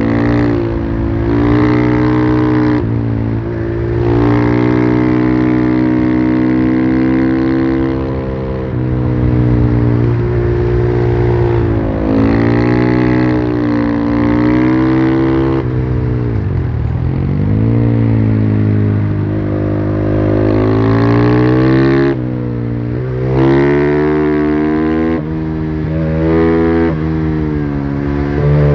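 Husqvarna FE501's single-cylinder four-stroke engine through its stock exhaust, accelerating and shifting up, its pitch climbing and then breaking at each gear change. About halfway it falls away as the bike slows, then picks up again, and near the end it rises and drops several times in quick succession.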